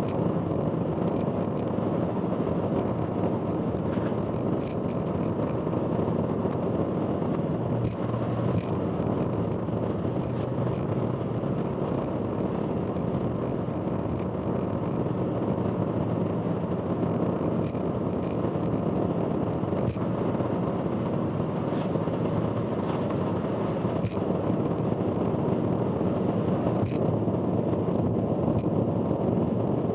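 Steady road noise of a car driving on an expressway, heard from inside the car, with scattered short clicks or rattles every second or two.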